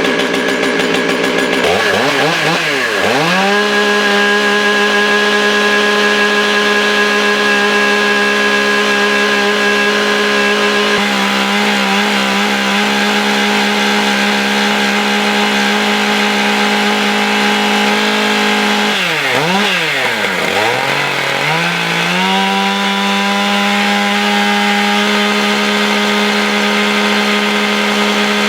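Stihl MS661 Magnum chainsaw's 91 cc two-stroke engine running loud. It revs up from a low speed to a steady high pitch about two seconds in, drops briefly and revs back up about twenty seconds in, then holds steady.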